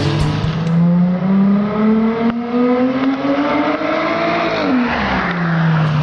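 V6 Dodge engine with an aftermarket stainless dual exhaust accelerating under load: the exhaust note rises steadily in pitch for about four seconds, falls quickly as the throttle closes, then settles into a steady lower drone.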